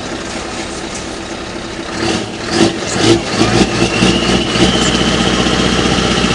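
Scania R620's V8 diesel engine running, growing louder about two seconds in into a steady low rumble, with a few clicks and a high whine joining from about four seconds.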